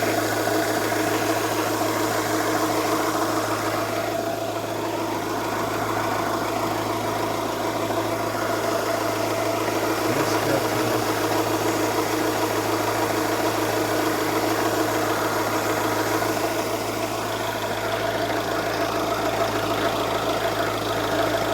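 Vehicle engine idling steadily after being reassembled, running fine.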